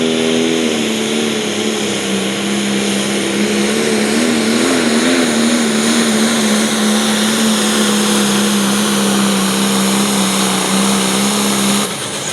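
International 5488 pulling tractor's diesel engine at full throttle under load as it pulls the sled, holding a steady high note that wavers briefly about four to five seconds in. It cuts off abruptly near the end.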